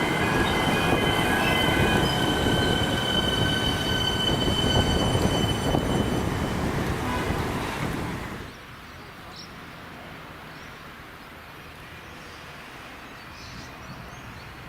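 Electric suburban train running past close by, its wheels squealing in several steady high tones over the rumble of the wheels on the rails; the squeal fades after about six seconds and the train noise drops away sharply about eight seconds in, leaving a quieter steady background.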